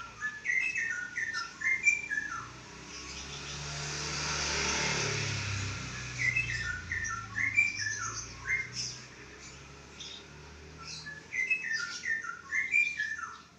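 Yellow-vented bulbul singing: three bubbling phrases of quick, stepping notes, one near the start, one in the middle and one near the end. Between the first two phrases a rush of noise swells and fades.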